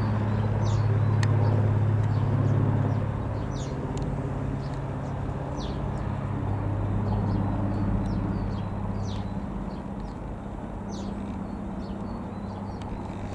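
Rockwell Commander 114 single-engine piston aeroplane droning overhead, a steady propeller hum that fades gradually as it moves away. Small birds chirp repeatedly with short high calls over it.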